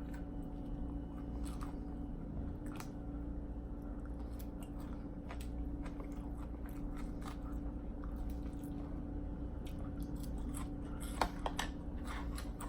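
Close-up mouth sounds of someone chewing food, with scattered small crunches and clicks, over a steady low hum and rumble, the grumbling noise from downstairs.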